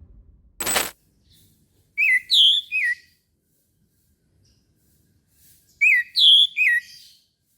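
Orange-headed thrush singing two short phrases of sweeping whistled notes, a few seconds apart. A brief burst of noise sounds just under a second in.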